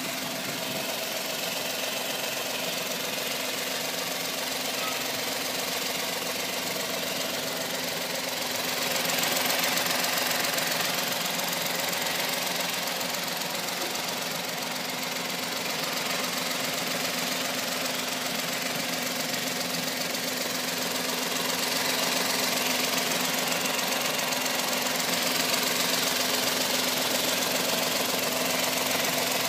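Suzuki Stingray's engine running steadily at idle, growing a little louder for a couple of seconds around nine seconds in and again from about twenty-two seconds on.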